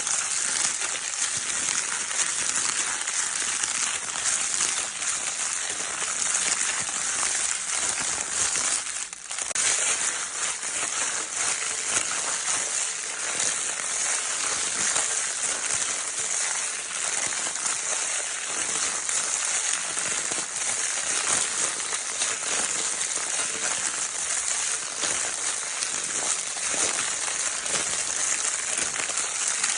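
Baby crinkle paper toy being crinkled continuously: a dense, steady crackle with a brief lull about nine seconds in.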